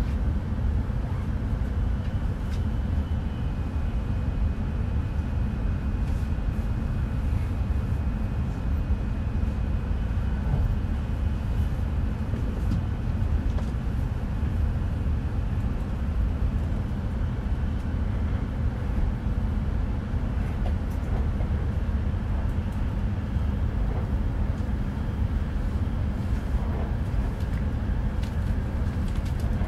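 Steady low rumble of an E5 series Shinkansen train running, heard inside the passenger cabin, with a faint high whine from a few seconds in until about halfway.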